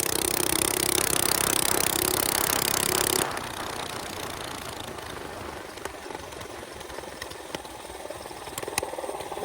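Small minibike engine running, loud for the first three seconds or so, then dropping suddenly to a quieter run with a few scattered clicks.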